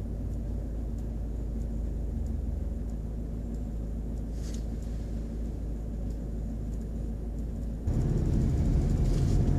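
Car engine idling with a steady low rumble, heard from inside the cabin while stopped. About eight seconds in the rumble jumps abruptly louder and stays up.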